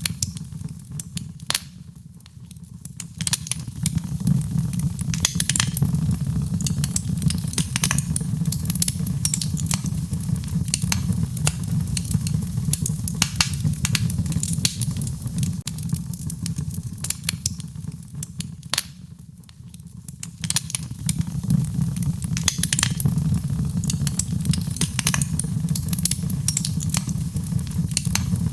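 Wood fire in a fireplace crackling: a steady low rumble of flames with frequent sharp pops and snaps. It dips quieter briefly twice, about two seconds in and again near the middle.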